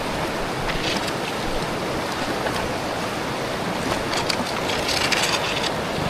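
Fast-flowing river water rushing steadily around the tubes, with splashing about a second in and again for a stretch later on.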